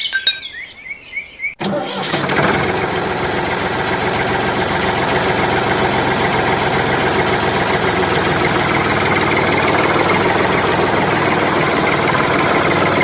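A brief click, then about a second and a half in a steady engine running sound starts for a miniature model tractor driving along, and holds even.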